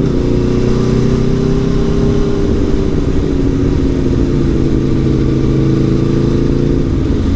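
Aprilia Tuono V4 1100 Factory's V4 engine running steadily under way, its pitch slowly easing down.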